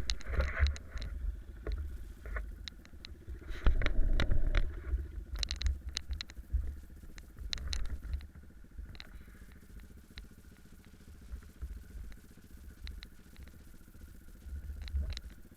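Honda CRF150F dirt bike's four-stroke single-cylinder engine running, nearly buried under heavy wind buffeting on a helmet-mounted camera, with scattered knocks and clicks. The loudest stretch is about four seconds in.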